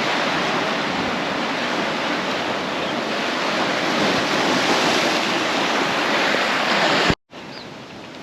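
Ocean surf washing steadily onto the rocky shore, a loud even rush of water. It cuts off abruptly about seven seconds in, leaving a much fainter surf background.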